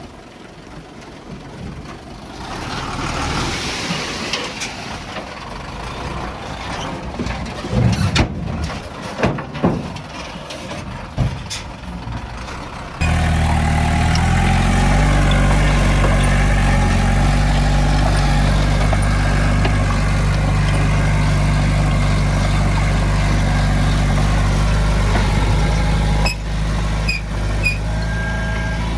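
A rushing hiss with several sharp knocks, then an abrupt change to a heavy diesel engine running steadily and loudly.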